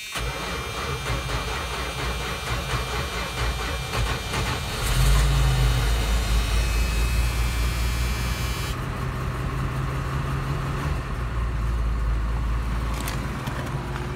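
1983 Dodge D150 pickup cold-starting in freezing weather: the starter cranks the engine for about five seconds, then the engine catches with a rise in level and settles into a steady idle.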